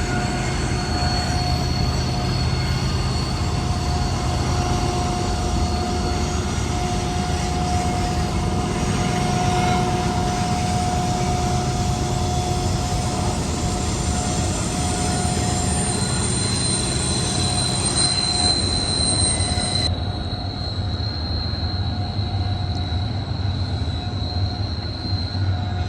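BNSF double-stack intermodal freight train rolling through a curve: the wheels squeal in steady high tones over a continuous low rumble.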